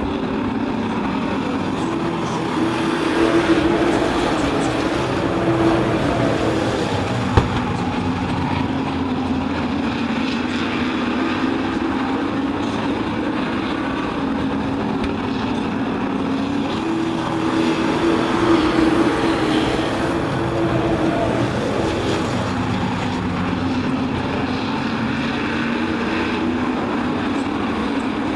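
Race trucks' engines running as they circle an oval track, a continuous din that swells twice as the field goes by. One short sharp click about seven seconds in.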